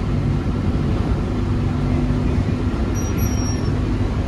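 Steady rumble of a moving train, heard through an open window with wind buffeting the microphone. A brief high-pitched tone sounds about three seconds in.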